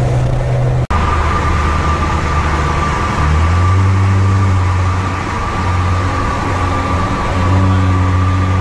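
Vehicle engine and road noise from a moving car, a steady low drone whose pitch shifts a few times, with a brief cut-out just under a second in.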